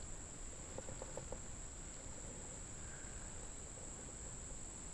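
Insect chorus shrilling in one steady high note, faint, with a few soft clicks about a second in.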